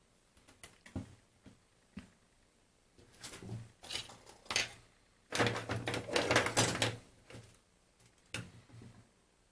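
Handling noises from taking apart a cordless phone: scattered light clicks and knocks, then a dense run of clattering about five to seven seconds in, with one more knock near the end.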